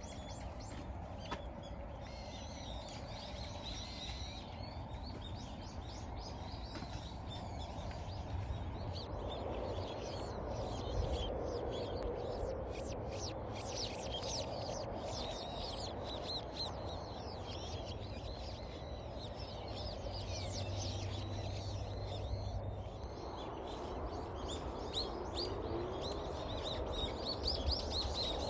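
Small birds chirping and calling, many short chirps throughout, over a steady low outdoor rumble.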